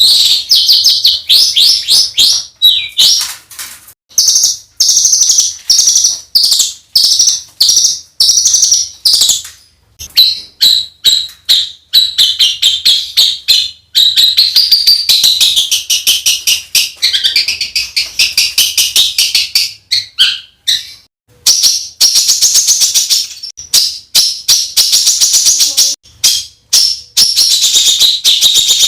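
Songbird singing a masteran tutor song: fast runs of harsh, rapid-fire repeated notes ('tembakan kasar'), broken by short pauses.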